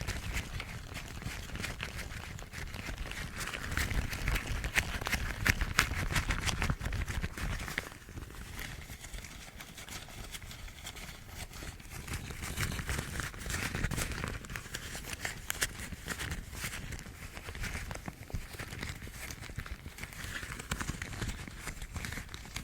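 Yellow household rubber gloves rubbed, squeezed and scratched close to the microphone, giving dense crackling and rustling. It is louder a few seconds in and quieter for a stretch in the middle.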